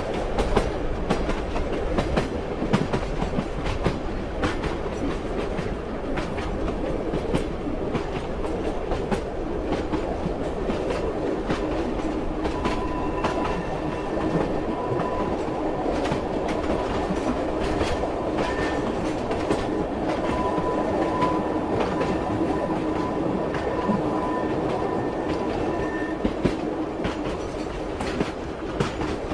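Train wheels clattering over the rail joints: a steady rumble broken by irregular clicks. A faint thin whine runs through the middle stretch.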